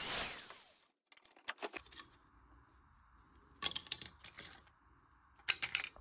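Angle grinder's cutting noise dying away in the first second as the disc spins down. Then come three short bursts of sharp clicking and rattling, like metal tools or parts being handled.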